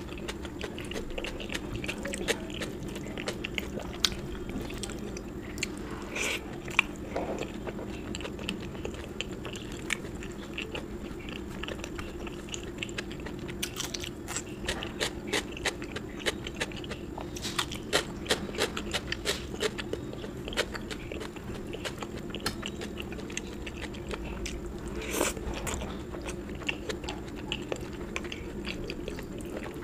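A person chewing food close to the microphone, with many small wet clicks and occasional louder crunches, over a steady low hum.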